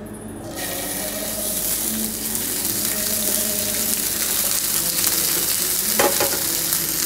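Ginger-garlic paste sizzling in hot oil in a nonstick frying pan, stirred with a spatula. The steady sizzle starts suddenly about half a second in as the paste hits the oil.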